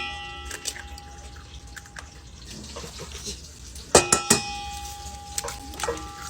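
Hard objects clinking together: a sharp strike about four seconds in rings on with a clear, bell-like tone for a second or two, with smaller taps and knocks around it.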